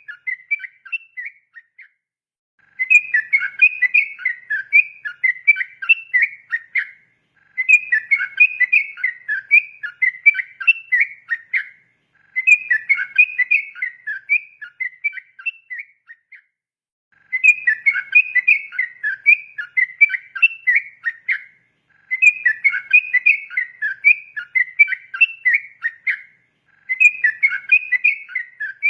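Yellow-vented bulbul (trucukan) singing its rapid, chattering 'ropel' song in repeated phrases of about four seconds each, with short pauses of about a second between them.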